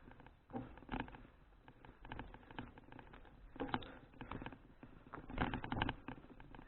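Irregular rattling and clicking from a folding bicycle being ridden, over a low rumble. The loudest cluster of rattles comes about five and a half seconds in.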